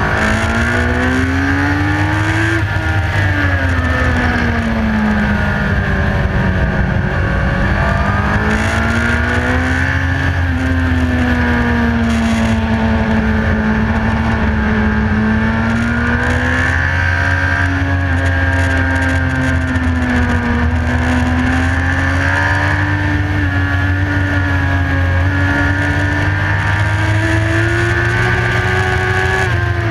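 Motorcycle engine heard from a camera mounted on the bike, pulling steadily at high revs through long corners, its pitch swelling and easing gently with the throttle and falling sharply at the very end as the revs drop. Wind rushes over the microphone under the engine note.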